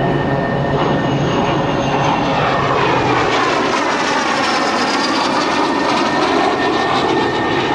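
Aero L-39 Albatros jet trainer's turbofan engine as the aircraft flies past, a steady jet whine whose tone sweeps down and back up about halfway through.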